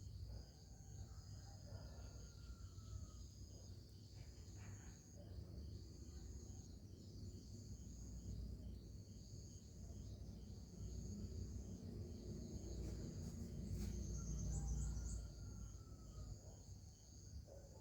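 Crickets chirping steadily in a high, pulsing trill, over a low rumble that swells for a few seconds near the end, with a couple of faint sliding whistles.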